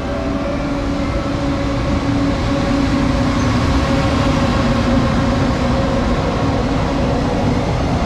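JR Freight EF210 electric locomotive hauling a container freight train past at speed: a loud rumble of wheels on rail with a steady hum, growing louder as the locomotive passes and the container wagons roll by.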